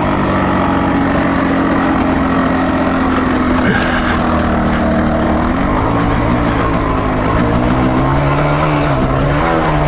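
Dual-sport motorcycle engine running at a steady, moderate throttle while riding a trail, its pitch shifting slightly about six seconds in. A single short knock a little under four seconds in.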